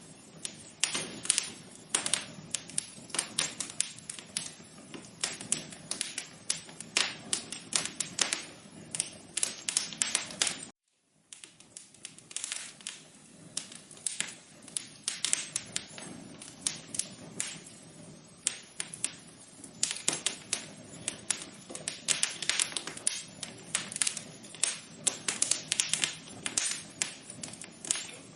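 Wood fire crackling in a fireplace: a dense, irregular run of pops and snaps. It cuts out for a split second about eleven seconds in, then carries on.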